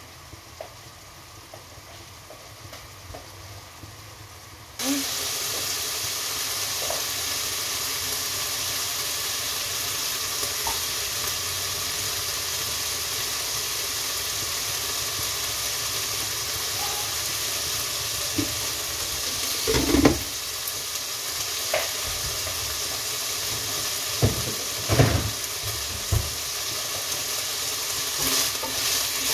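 Food starts sizzling in hot oil in a pan about five seconds in and keeps up a steady hiss. A wooden spatula knocks and scrapes against the pan a few times while it is stirred, most around the last third.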